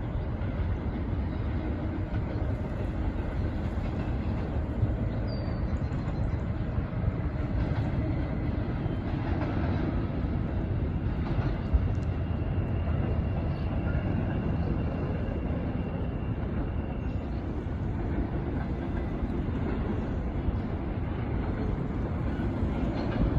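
Long BNSF intermodal freight train of container cars rolling past: a steady rumble of steel wheels on rail, with a few sharp clicks and a faint thin high squeal for several seconds around the middle.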